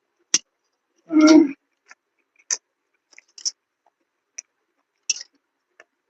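Close-miked mouth chewing food, with scattered short wet clicks and smacks and one louder, longer noise about a second in.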